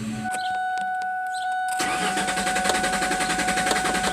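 2000 Ford Mustang engine being cranked over by the starter without firing, in clear flood mode, starting about two seconds in as a fast, even cranking rhythm. The cranking sounds even, a sign that there is no mechanical fault behind the cylinder 1 misfire. A steady high whine sounds throughout.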